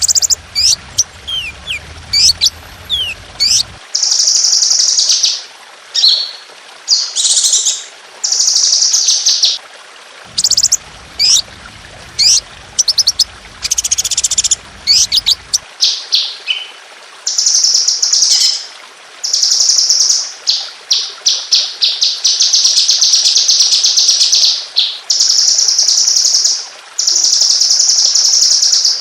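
Songbird song of the kind used as 'masteran' training recordings: sharp whistled notes that sweep up and down, then long, rapid, high-pitched trills ('tembakan') repeated with short gaps. The longest trill, several seconds, comes about two-thirds of the way in.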